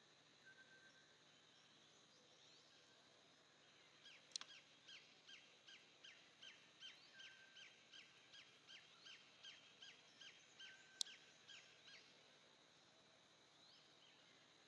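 A bird calling a long run of short, quick, downward-sliding notes, about two or three a second for some eight seconds, over faint outdoor background. Two sharp clicks stand out, one as the run begins and a louder one near its end.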